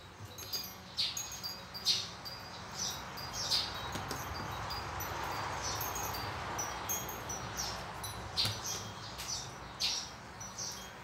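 Small birds chirping again and again, short sharp chirps every second or so, with a soft hiss in the middle of the stretch.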